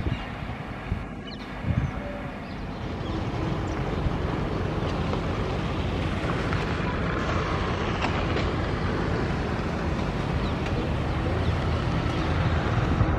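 WAP-5 electric locomotive and its passenger train approaching: a steady rumble of wheels on rail that swells a little and then holds. There is a brief thump about a second and a half in.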